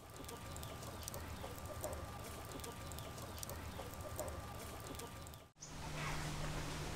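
Faint bird calls, like clucking fowl, repeating among scattered faint clicks. A cut about five and a half seconds in brings a steady low hum.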